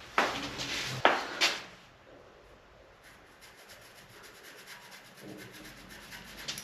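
Parts being handled on the bench: a sharp knock with scraping as wood and metal rub together, then two more knocks about a second in. Faint quick ticking follows.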